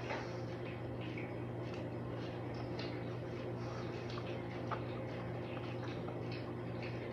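Close-up chewing of a mouthful of chicken casserole with a crushed Ritz cracker topping: faint, irregular little crunches and ticks over a steady low hum.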